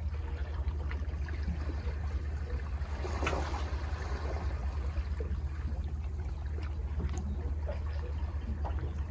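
Sea water washing and trickling among rocks at the foot of a cliff, over a steady low rumble; one wave swells up a little over three seconds in.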